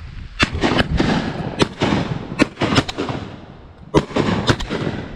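Several shotguns firing in a ragged volley, about nine shots over some four seconds, in twos and threes, each with a rolling echo.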